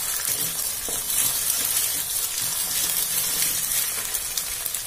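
Eggs frying in hot oil with onion and green chilli in a metal kadhai, sizzling steadily while a wooden spatula stirs and scrapes them.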